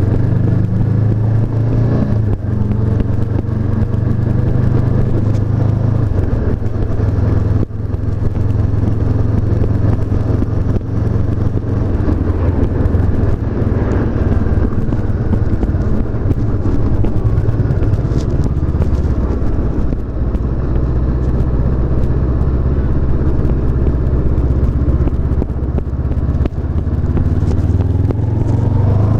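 2017 Honda CB500F's 471 cc parallel-twin engine running under way at fairly steady revs, with the pitch shifting a few times and rising near the end as the bike accelerates.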